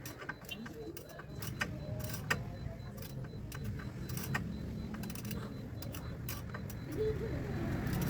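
Car engine running at idle, a steady low rumble that grows louder toward the end, with scattered light metallic clicks and taps on top.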